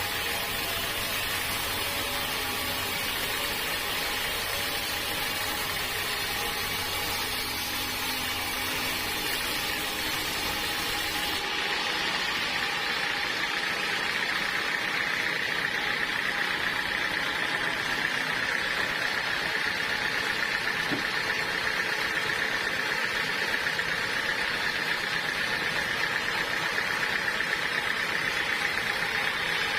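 Band sawmill running steadily, with a steady high whine coming in partway through and holding.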